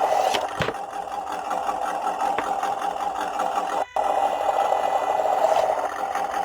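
Simulated engine sound from an RC truck's add-on sound-kit speaker, running steadily with a fast, even chugging rhythm. It cuts out for an instant about four seconds in, the kit's intermittent dropout fault, whose cause the owner has not yet found.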